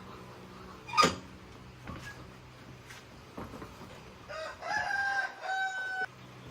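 A sharp knock about a second in, then a rooster crowing for nearly two seconds near the end, over a steady low hum.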